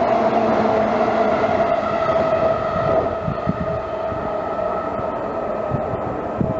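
Electric local train running, a steady hum with several held tones over rumbling noise, easing off a little about halfway through.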